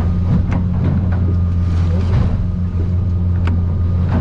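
Yamaha outboard motor of a Stabicraft 2050 Supercab aluminium boat running under way, heard as a steady low drone inside the cabin. A few sharp knocks come through as the hull pounds over rough water.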